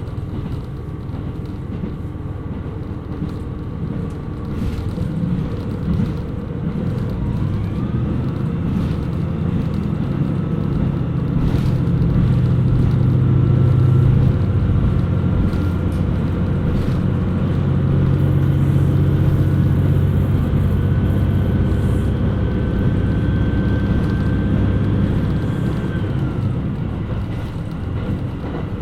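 KiHa 127 series diesel railcar heard from on board, its diesel engine running under power with a steady low hum. A thin whine rises slowly in pitch from about a quarter of the way in, then drops away about three seconds before the end as the engine note eases.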